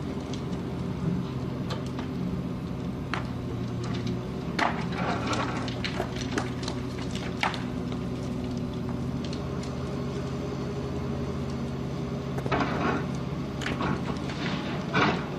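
A heavy machine's engine running steadily at a constant speed, with scattered metallic knocks and clatters.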